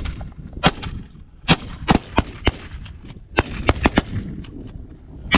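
Volley of shotgun blasts from several hunters firing at geese, about ten shots in five seconds at an irregular pace, some in quick pairs.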